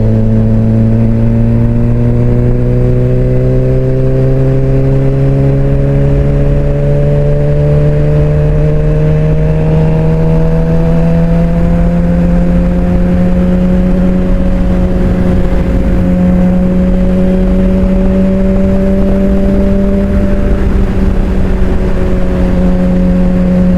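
Suzuki GSX-R600's inline-four engine running under way at a steady cruise, its pitch climbing slowly through the first half as the bike gathers speed, then holding level. A low rumble of wind noise runs under it.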